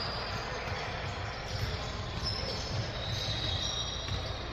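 Basketball game sound in a gym: a ball bouncing on the court, with short high squeaks typical of sneakers on the floor, over a steady wash of crowd noise.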